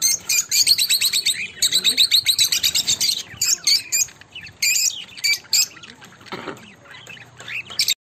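Birds calling: a fast chattering run of short, high notes, about ten a second, for the first three seconds, then scattered single calls.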